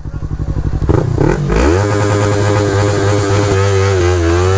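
Motorcycle engine running at low revs, then revving up about one and a half seconds in and holding a steady higher pitch.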